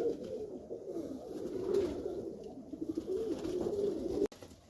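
Domestic highflyer pigeons cooing in the loft, several calls overlapping. The cooing cuts off abruptly near the end.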